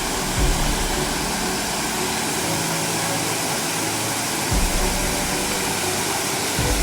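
Steady rush of stream water, with a few short low thumps about half a second in, about two-thirds through and near the end.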